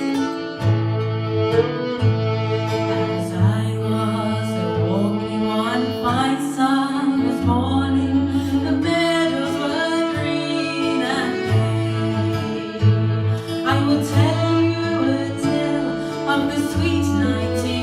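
Acoustic folk trio playing live: a fiddle carries the melody over a strummed guitar and held low bass notes, with singing possibly coming in.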